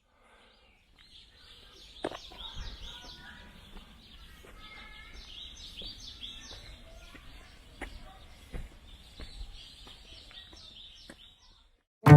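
Small birds chirping, many short, high chirps repeated rapidly, with a few sharp clicks or knocks among them.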